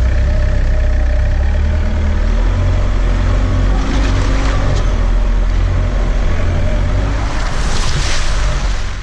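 A 4WD vehicle driving on a dirt mountain track: a loud, steady low engine and road rumble with a slight rise and fall in engine pitch and brief hissy swells. It cuts off suddenly at the very end.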